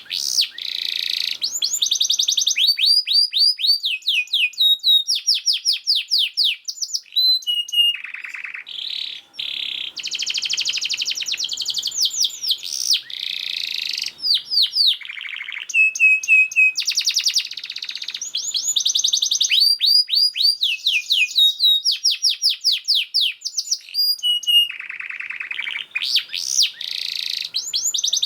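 Domestic canary singing a long, continuous song: fast runs of repeated falling notes alternating with dense trills and buzzing rolls, with hardly a pause.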